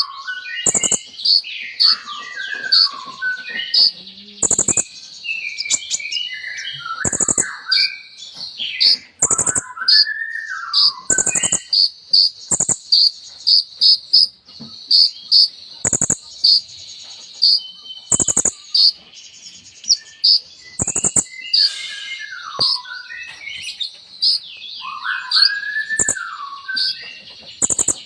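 Kolibri ninja sunbird singing a varied song: rapid sharp, high chip notes repeated again and again, broken up by arching and falling whistled phrases.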